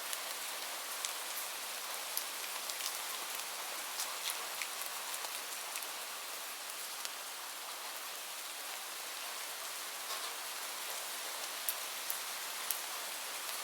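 Steady rain falling: an even hiss with many individual drops ticking sharply here and there.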